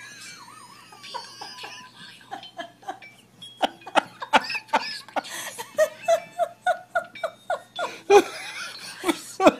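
A person laughing in a long run of short bursts that starts about three seconds in and grows louder.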